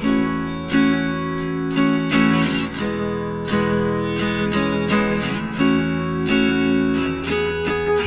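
Background music: strummed acoustic guitar playing a steady chord rhythm.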